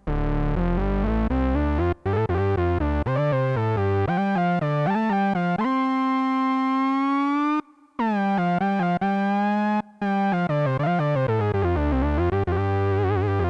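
Behringer Odyssey analog synthesizer played solo: a gliding lead line of notes that slide into one another, with a long held note in the middle that bends slightly upward, then more sliding notes and a fast vibrato wobble near the end.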